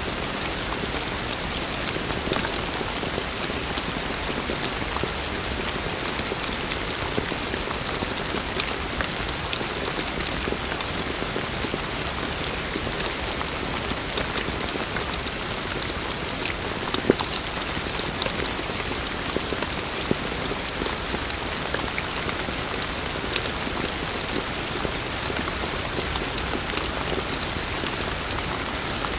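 Heavy rain falling steadily, a dense even hiss with scattered sharp drops hitting nearby surfaces, one louder drop about seventeen seconds in.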